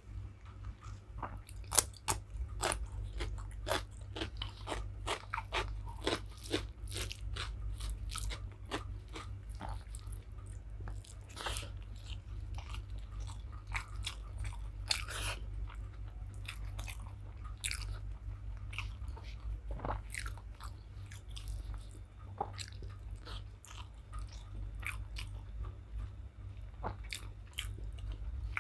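Close-miked mouth sounds of a person chewing and eating rice with curry, irregular wet clicks and crunches, over a steady low hum.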